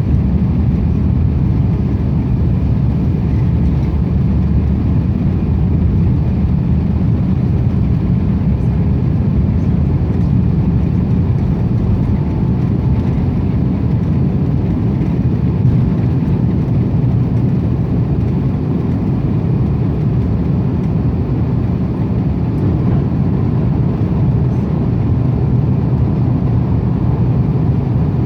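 Airbus A350 jet airliner during its takeoff, a loud, steady low rumble that holds even without rising or falling.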